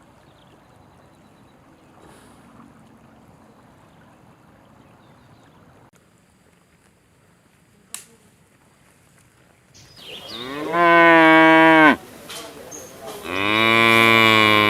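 A cow mooing twice: two long, loud moos, the first about two seconds long and dropping in pitch at its end, the second starting about a second later and still going at the end. Before them there are about ten seconds of faint low background noise with a single sharp click.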